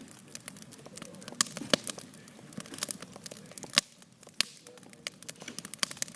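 Wood campfire crackling: irregular sharp snaps and pops, two of them louder, about two seconds and four seconds in.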